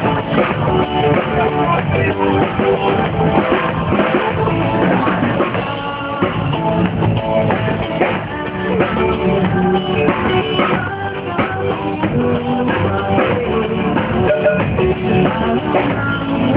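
Live rock band with drum kit and electric guitar, played through a car audio system.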